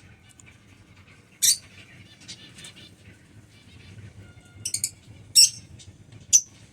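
Lovebirds giving short, shrill chirps: one loud call about a second and a half in, a quick run of three, then two more single calls near the end.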